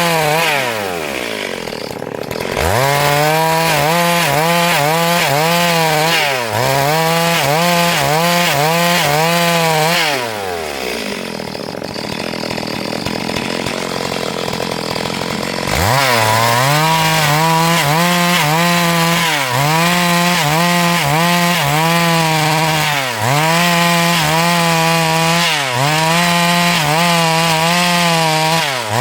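Two-stroke chainsaw cutting wood lengthwise at full throttle, its pitch dipping briefly every second or two under load. Twice the throttle is let off, so the revs fall away to a low idle, then it is opened up again, quickly about two and a half seconds in and again after a longer pause, about sixteen seconds in.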